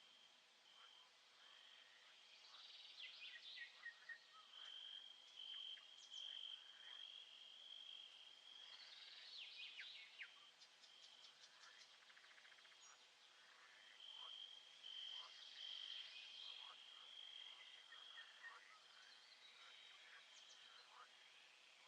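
Faint nature soundscape: a steady high-pitched insect trill, like crickets, that fades in and out, with a few bursts of quick falling bird chirps scattered through it.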